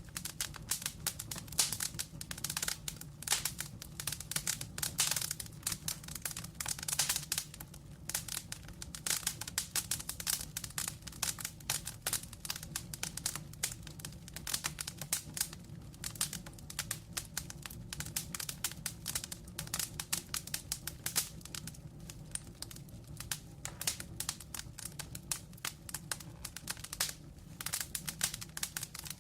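Wood fire burning in a fireplace, logs crackling and popping in a dense, irregular stream of sharp snaps over a low, steady rumble of flame.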